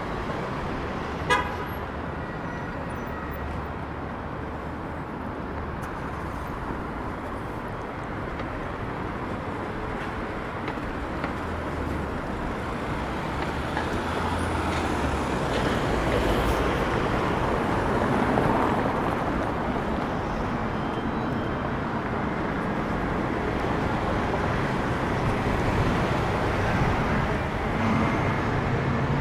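City street traffic: a steady rumble of passing vehicles that grows louder about halfway through, with one short, sharp horn-like toot about a second in.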